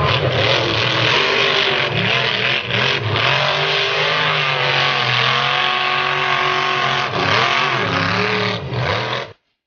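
Monster truck's big V8 engine running hard and revving, its pitch rising and falling; the sound cuts off suddenly near the end.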